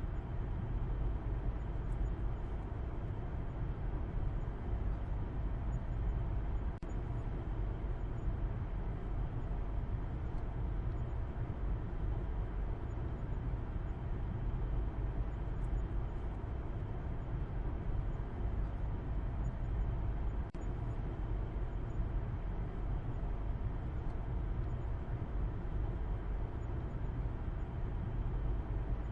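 Steady low road noise of a moving car, engine and tyres, with no changes in pitch or level.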